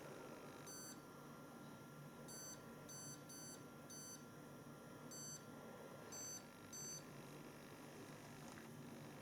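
Hoover Dynamic Next washing machine control panel beeping as the cycle and options are selected: about eight short, high-pitched beeps at irregular intervals.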